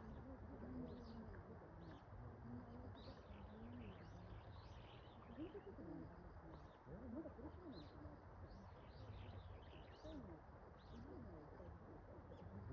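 Faint wild birds calling: short high chirps repeating every second or so, with some lower calls beneath, over steady background noise.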